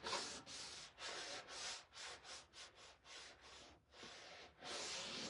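Rubbing strokes by hand over a painted surface, quick and uneven, about two or three strokes a second, each a short scratchy hiss.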